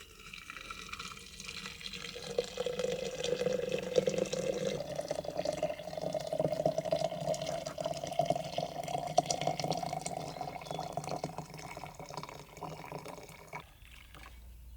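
Water running into a container, with a tone that rises slowly as the container fills. The sound stops suddenly near the end.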